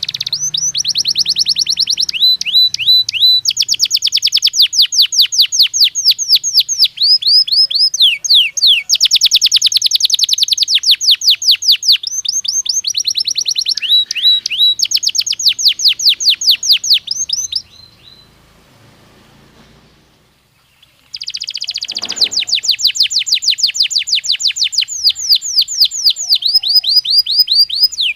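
Belgian canary singing long, rapid trills of repeated high notes, with a break of about three seconds about two-thirds of the way through before the song resumes.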